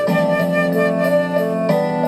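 Flute playing a slow melody over a soft keyboard accompaniment, with chord changes near the start and near the end.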